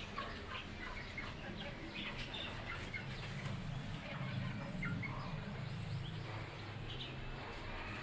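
Birds chirping in a busy, overlapping chorus of short calls, over a steady low hum.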